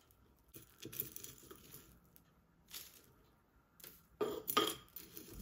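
Scattered short rustles and clicks of objects being handled, loudest in a cluster of a few sharp sounds near the end.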